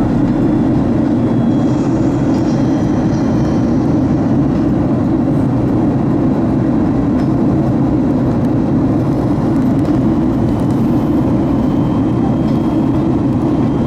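Steady rushing noise of a Boeing 737 MAX 8 in flight on approach, heard from inside the aircraft: even airflow and engine noise, strongest in a low band.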